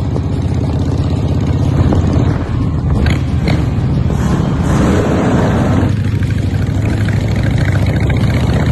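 Honda Shadow V-twin motorcycle engine running steadily, with a louder, rougher stretch in the middle.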